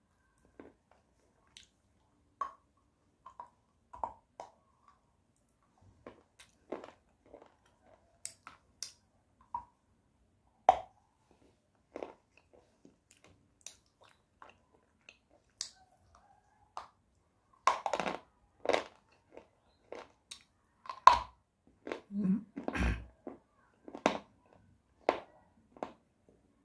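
Close-miked biting and chewing of a hard white clay bar: sparse sharp crunches and chewing clicks, coming more often and louder in the last third. The bar is crunchy but powdery.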